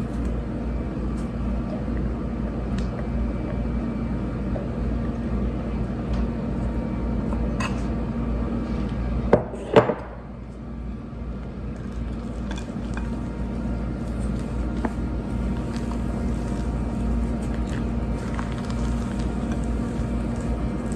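Spatula folding beaten egg whites into cake batter in a mixing bowl: soft scraping and faint clinks against the bowl, with two sharper knocks a little before halfway, over a steady low hum.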